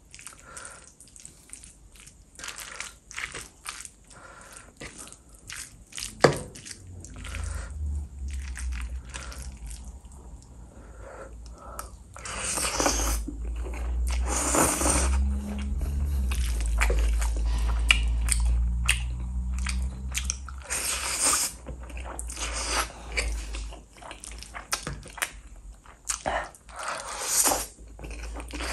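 Close-miked eating of noodles: wet chewing and smacking mouth sounds, with several louder noisy bursts in the middle. A low rumble runs underneath through much of the middle.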